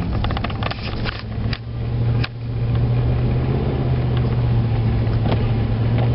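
Dodge diesel pickup's engine running while driving, a steady low drone. A few sharp clicks or knocks sound in the first second or so.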